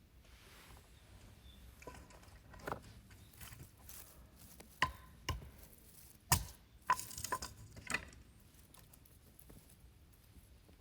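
Camping gear being handled: scattered knocks and clinks at irregular intervals, several with a brief metallic ring, the loudest about six seconds in.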